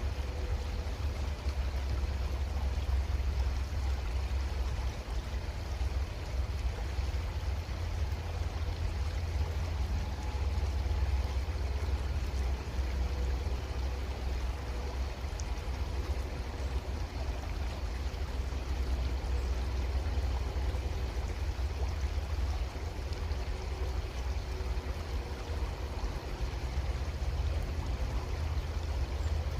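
Creek water running steadily, with a strong low rumble underneath.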